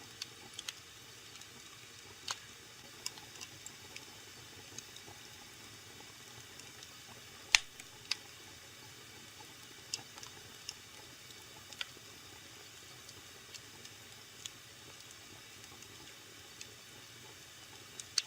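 Wood fire burning in a fireplace: a faint steady hiss with scattered crackles and pops. One loud pop comes about seven and a half seconds in.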